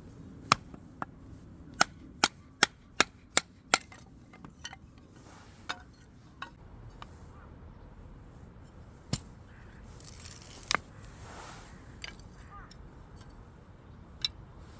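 A quick run of sharp striking blows, about two or three a second, then a few scattered knocks.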